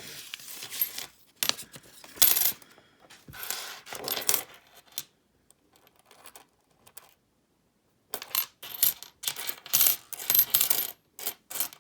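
Pennies clinking and jingling against each other as they are handled and spread out, in bursts, with a pause of about three seconds in the middle.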